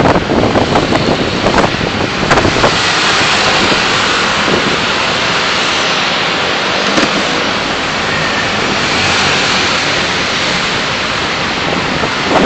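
Steady rushing noise of a car on the move, picked up by a dashcam, with a few short knocks in the first couple of seconds.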